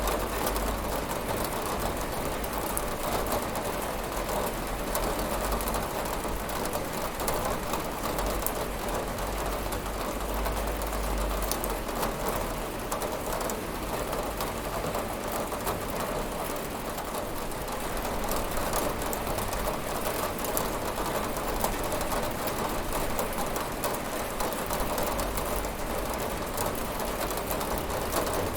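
Steady rain falling and pattering on a window, a dense even patter with a low rumble underneath.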